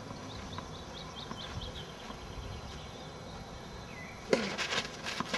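A songbird calling in the trees: a quick run of short rising chirps, about five a second, for the first couple of seconds. This is over a steady outdoor background. A short, louder noise comes about four seconds in.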